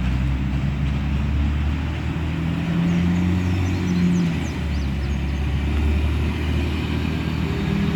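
Engine running steadily with a low drone, its tones swelling and fading slightly.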